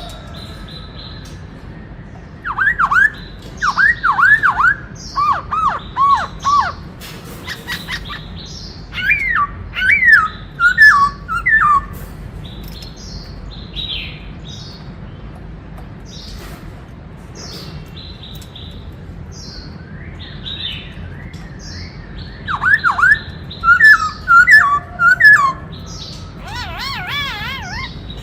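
Black-throated laughingthrush (khướu bạc má) singing: three bouts of loud, swooping whistled notes, with softer high calls in between over a steady low hum.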